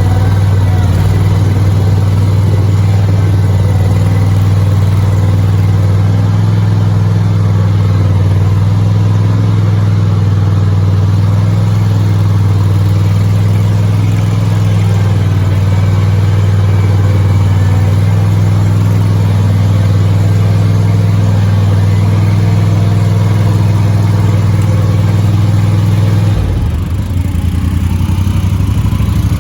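Bad Boy Rogue zero-turn mower engine running steadily under way. Near the end its note drops to a lower, uneven throb as it is throttled back.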